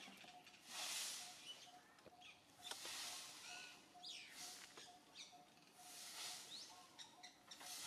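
Faint outdoor ambience with short, high bird chirps scattered through it and a few soft swells of rustling hiss.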